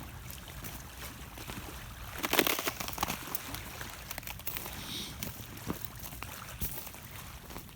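Water washing and trickling along the shore, a steady rushing noise with a low rumble. A cluster of sharp clicks and crunches comes about two to three seconds in.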